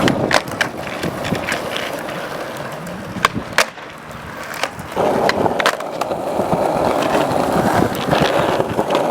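Skateboard on extra-wide freeboard trucks with extensions, its wheels rolling with a steady rumble and several sharp clicks and knocks. The rolling fades briefly a little under four seconds in and comes back louder about five seconds in.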